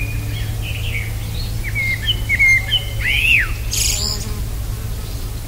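Small birds calling: a run of short chirps with a rising-and-falling whistle about three seconds in and a harsh, scratchy note just after. A steady low hum runs underneath.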